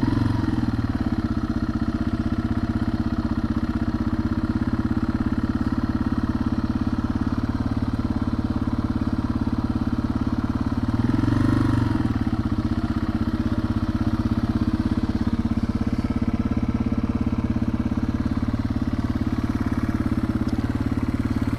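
Yamaha TW200's single-cylinder four-stroke engine running steadily as the motorcycle rolls along, briefly rising in pitch and level about halfway through before settling again.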